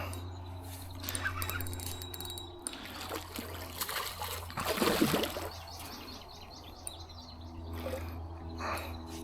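Water splashing and trickling, with the loudest splash about five seconds in, as a hooked carp thrashes at the surface while it is landed.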